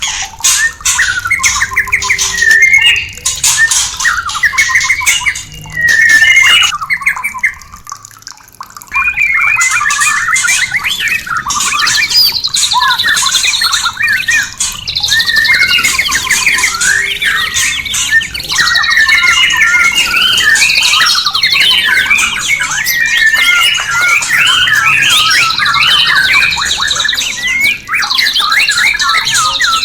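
White-rumped shama (murai batu) singing rapid, varied phrases with high trills, over a hiss of running water. The song breaks off briefly about seven seconds in.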